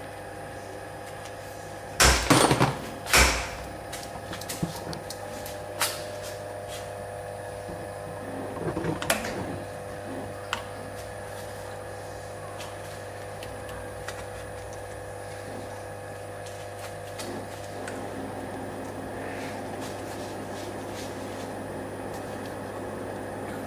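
Spring-making machines in a spring factory running with a steady hum of several fixed tones. Two loud sudden knocks come about two and three seconds in, and a rattle of smaller knocks near nine seconds, with scattered clicks in between.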